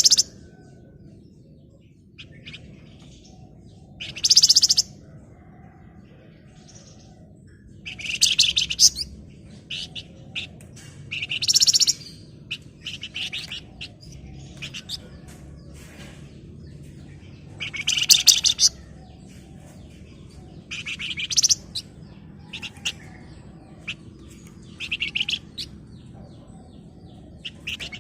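Flamboyan songbird calling in rapid, dense rattling trills: high, buzzy bursts of about a second each, repeated every two to four seconds, with shorter chips between them. A steady low background hum runs underneath.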